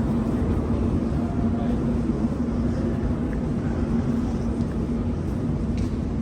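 Steady rumble with a constant low hum, the ambience of a Montreal Metro station and its rubber-tyred trains.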